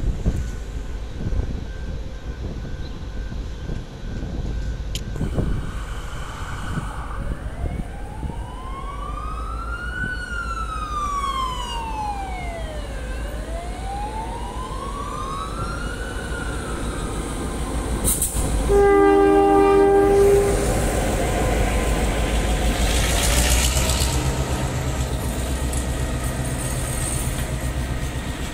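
Queensland Rail 1720 class diesel-electric locomotive arriving with Kuranda Scenic Railway carriages, its engine rumbling with the clatter of the train on the rails. In the middle a distant police siren wails slowly up and down twice, and about two-thirds of the way in the locomotive's horn sounds one steady blast of about two seconds, the loudest sound here.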